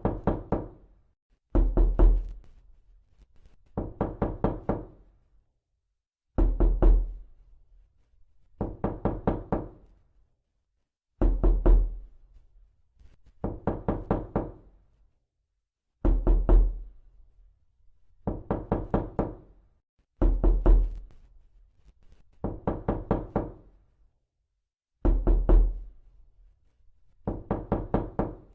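Repeated knocking in quick runs of about six to eight knocks, each run about a second long, recurring every two seconds or so, with a low thud and a short ringing tone in each run.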